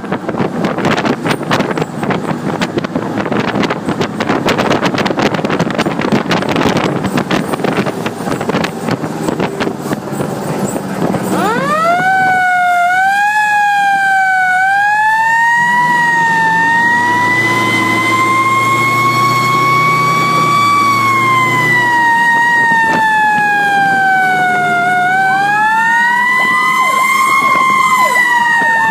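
Fire engine siren that starts about a third of the way in, rising fast and then wailing slowly up and down. Before it starts there is a loud rushing rumble.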